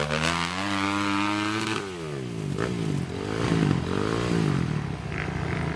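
Trail motorcycle engine revving: its pitch climbs for nearly two seconds, drops away, then rises and falls twice more.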